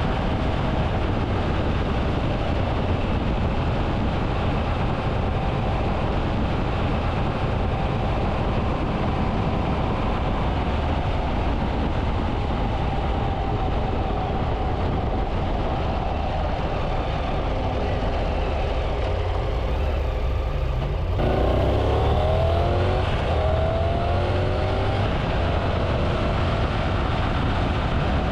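Triumph Tiger 800's inline-three engine running steadily while riding, over a steady haze of road and wind noise. About 21 seconds in the engine note climbs in pitch for a few seconds as the bike accelerates.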